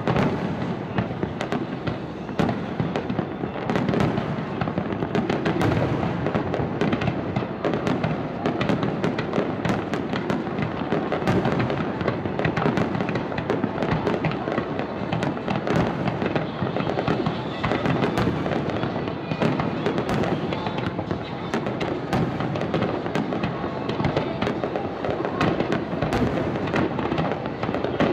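Aerial fireworks display: a dense, continuous barrage of shell bursts with many sharp bangs, one after another with no break.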